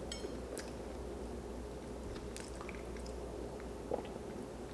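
A person chewing food in the mouth, faint, with scattered soft clicks and smacks over a steady low hum.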